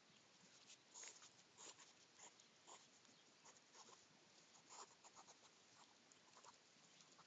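Faint, irregular scratching and clicking of hedgehogs moving about, several small ticks a second.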